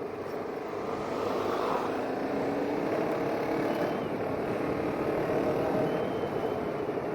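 Motorcycle engine running under throttle on a gravel track, mixed with wind and tyre noise, the engine note swelling about a second in.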